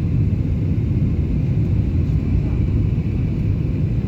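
Aircraft in flight: a steady low rumble of engines and airflow, even throughout, with a fainter hiss higher up.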